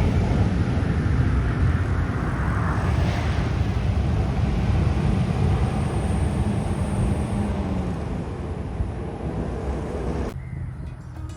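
Jet airliner's engines roaring as it passes on its landing approach, a deep rumble that slowly fades away; it cuts off suddenly near the end and music starts.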